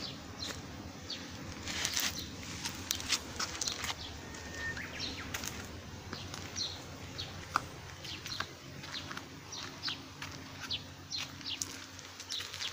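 Small birds chirping: many short, high chirps scattered throughout, over a low steady hum.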